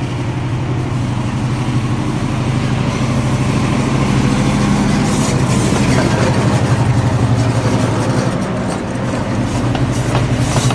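Diesel locomotive engine running steadily, growing louder about three to four seconds in as the train draws nearer.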